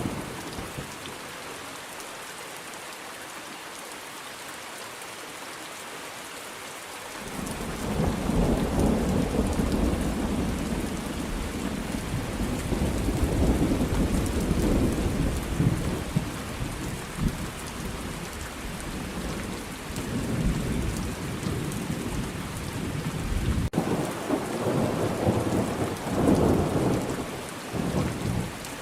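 Thunderstorm: steady rain falling, alone and fairly even for the first several seconds, then a long low roll of thunder builds about seven seconds in and rolls on, swelling again near the end.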